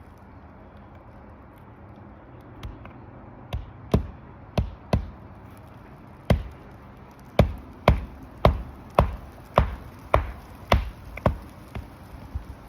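Hammer driving roofing nails into a replacement asphalt shingle: sharp blows, a few scattered at first, then a steady run of about two strikes a second.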